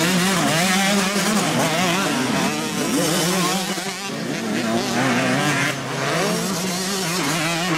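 Several motocross bikes running at once, their engines revving up and down and overlapping.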